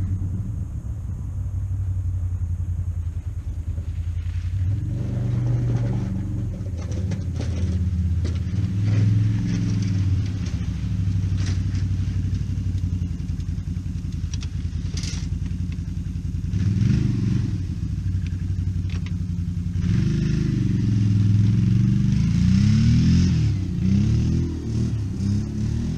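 Motor vehicle engine running, revved up and down several times, with the quick rev swells bunched near the end.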